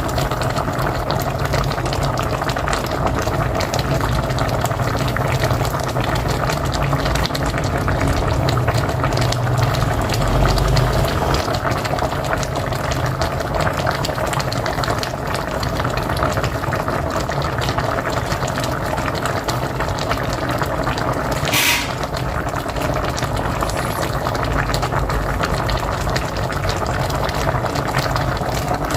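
Pot of mocotó (beef feet) boiling hard on a wood-fired stove: a steady, dense bubbling and gurgling of the broth. About three-quarters of the way through there is one brief sharp sound.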